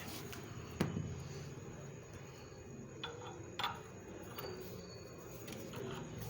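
A sharp knock about a second in, then a couple of fainter clinks around three and a half seconds, over a low steady hum.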